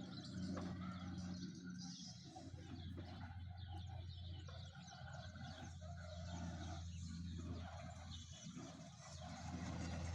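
Birds chirping outdoors over a steady low hum.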